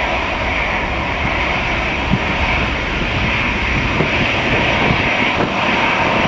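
Airliner engines running with a steady roar and a whine on top, while strong wind gusts rumble on the microphone.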